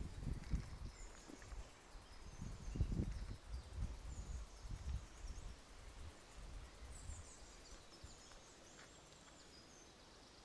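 Birds chirping faintly in short high calls. Irregular low thumps and rumbles run through the first seven seconds or so, then die away.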